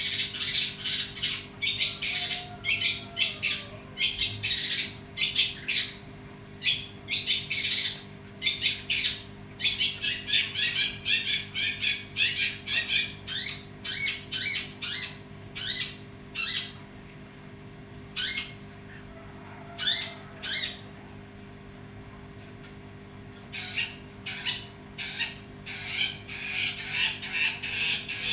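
Long-tailed shrike (pentet) in full, energetic song, giving rapid runs of harsh, scratchy calls, with a pause of a few seconds past the middle. A faint steady low hum lies underneath.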